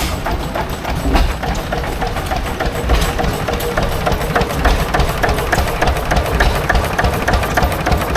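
Antique engine running steadily with an even chugging beat, about three to four strokes a second.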